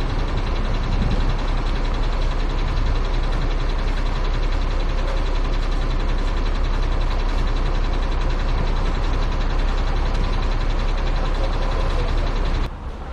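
Heavy truck engine running steadily with a deep low-end drone; the sound drops off abruptly near the end.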